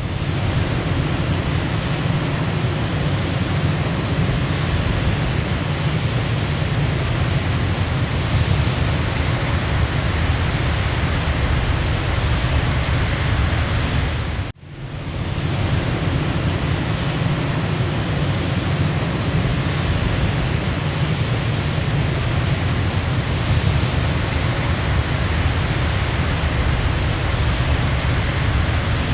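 Waterfall rushing steadily. The sound dips out for a moment about halfway through and swells back in.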